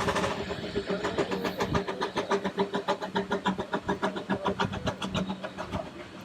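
Steam locomotive working, its exhaust beats coming quickly and evenly, about five a second, over a steady low hum. The beats fade near the end.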